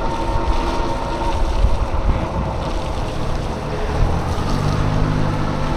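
Wind buffeting the microphone with steady road rumble while riding a bicycle; about four seconds in, the low hum of a motor vehicle's engine joins in.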